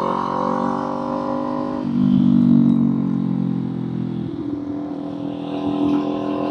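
Kawasaki Z400 parallel-twin engine running while riding, its note steady with evenly spaced overtones. The engine gets louder about two seconds in, then eases off again.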